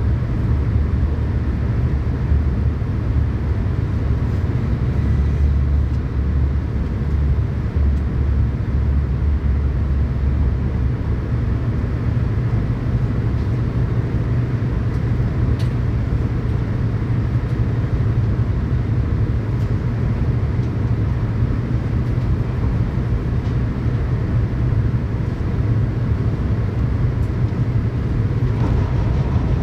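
Tokaido Shinkansen train running between stations, heard from inside the passenger car: a steady low rumble of wheels and running gear.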